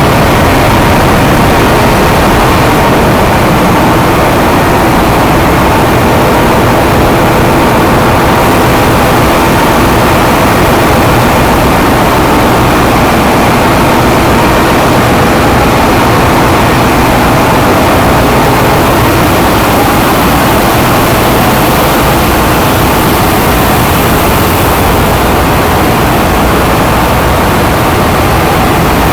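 Ship's engine room machinery running: a loud, steady mechanical din with faint steady hums layered in, unchanging throughout.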